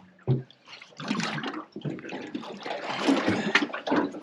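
Irregular water splashing at the side of a small boat from a hooked tope thrashing at the surface, still too lively to be landed.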